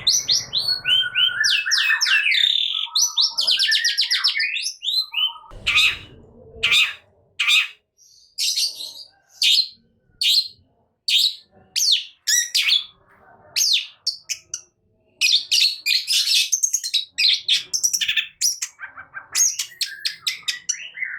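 Long-tailed shrike (cendet) singing in an excited burst: rapid runs of sharp, varied chirps, short trills and slurred whistled notes in clusters with brief pauses. A short low rumble sounds underneath twice, near the start and about six seconds in.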